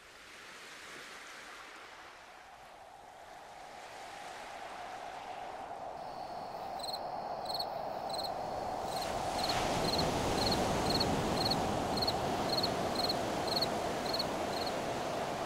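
Lake waves washing on the shore with wind, fading up and growing louder. From about a third of the way in, a bird repeats a short high note about twice a second.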